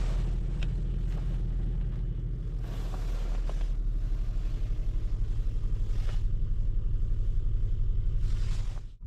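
Seat Ibiza 1.0 TSI three-cylinder turbo petrol engine running with a steady low rumble.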